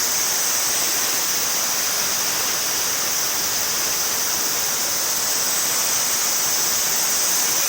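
A river in flood after typhoon rain: fast, swollen water rushing with a steady, even noise that does not change.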